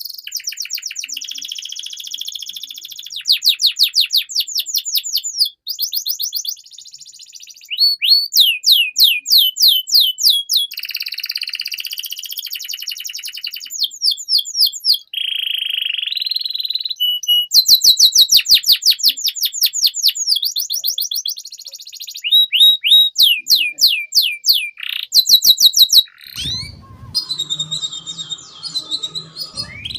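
Domestic canary singing a long, loud song of rapid trills and rolls, switching to a new repeated-note phrase every second or two. Near the end the trills give way to a few seconds of a rougher sound with a low hum underneath.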